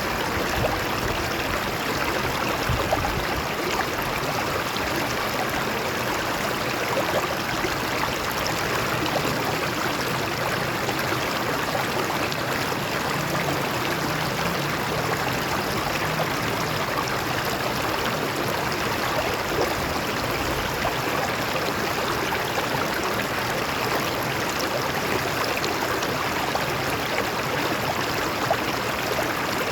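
Water flowing and splashing over rocks in a stream, a steady rushing with small gurgles and trickles.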